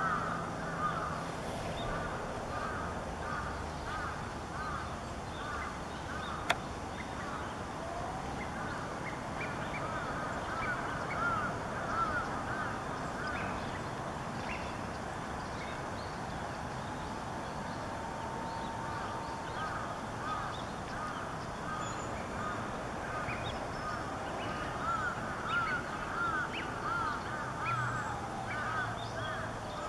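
Birds calling in bouts of quick, repeated short calls over a steady outdoor background hiss.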